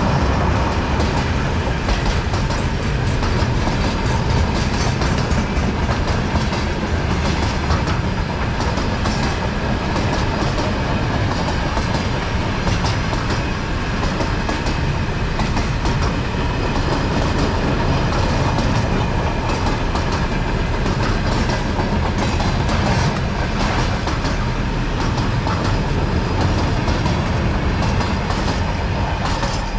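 A diesel-hauled works train passing at close range: a steady low rumble with the clickety-clack of wheels over rail joints and a faint steady whine.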